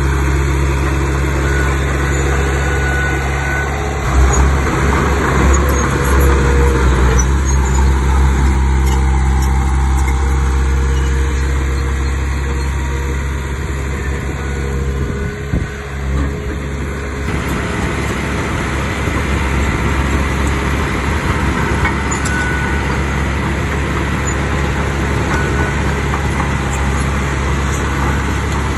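Heavy diesel engine of earthmoving machinery running steadily. It gets louder about four seconds in and changes tone again about two-thirds of the way through, as the load on it changes.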